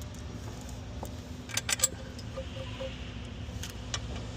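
A few sharp metallic clinks of steel bolts and hardware being handled, the loudest pair about a second and a half in, over a steady low workshop hum.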